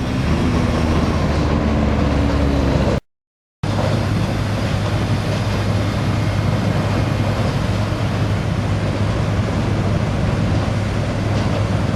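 Heavy diesel engine of an earthmoving machine running hard and steady under load, with a low, even drone. The sound cuts out for about half a second near three seconds in, then the engine carries on at the same pitch.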